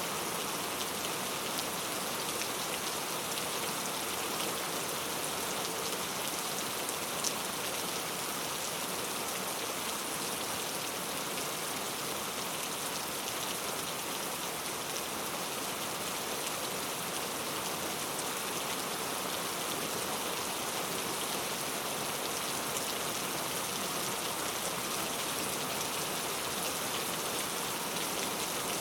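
Steady rain falling, a dense even hiss with fine patter of drops.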